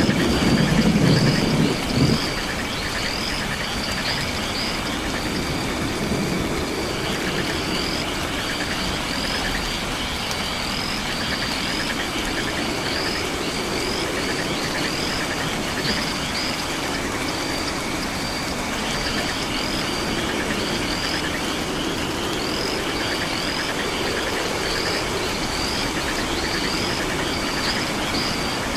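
Night rainforest ambience: a short high chirp repeating about twice a second over a steady trilling chorus of frogs and insects, with a low rumble underneath. A louder low rumble ends abruptly about two seconds in.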